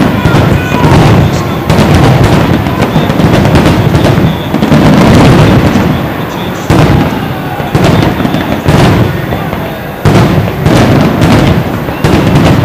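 Fireworks display: aerial shells bursting one after another, with a loud bang every second or two and a low rumble carrying on between the bangs.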